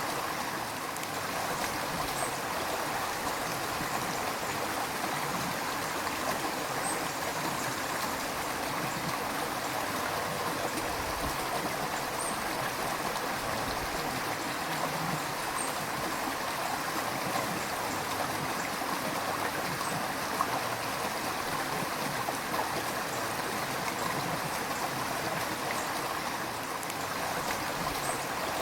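River water flowing steadily, a continuous rushing and gurgling of a stream.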